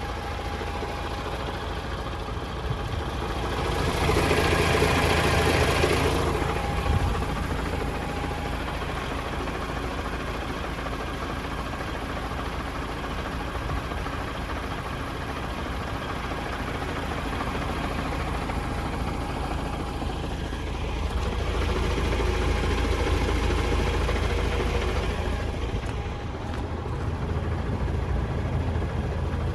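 DAF CF480 tractor unit's PACCAR MX-13 straight-six diesel idling steadily, growing louder for a few seconds twice, about four seconds in and again past twenty seconds.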